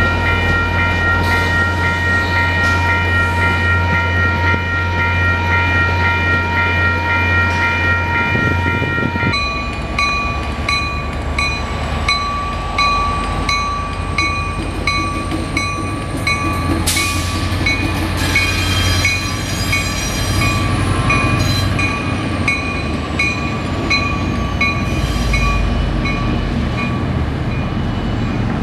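MBTA commuter train rolling through a grade crossing, first with several steady horn-like tones over the rumble of the cars. From about a third of the way in, a crossing bell rings about twice a second while an EMD F40PH-2C diesel locomotive pulls out and its horn sounds.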